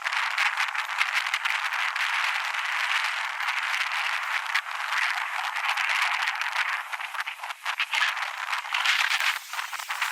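Loud wind buffeting the microphone during a board ride, a dense crackling rush with steady rattling running through it.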